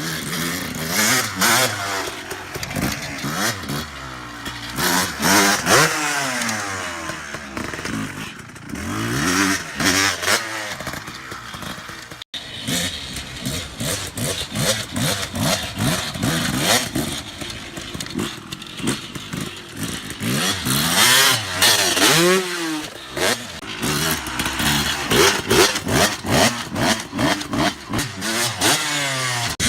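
Dirt bike engine ridden hard. Its revs climb and fall again and again as the throttle is opened and chopped, with a brief break about twelve seconds in.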